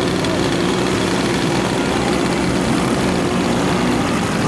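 Engine and propeller of a giant-scale radio-control model airplane running steadily at a constant speed.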